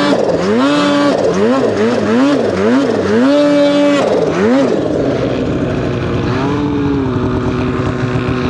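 Snowmobile engine revved up and down in quick repeated blips, about two a second, then held high briefly before dropping to a steadier, lower running about five seconds in.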